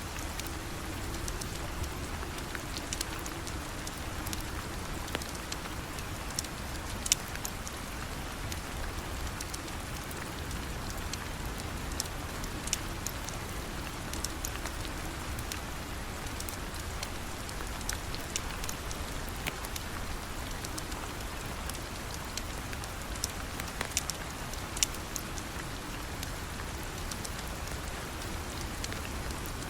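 Steady rain falling, with scattered sharp ticks and pops through it; one louder pop comes about 7 s in and another near 25 s.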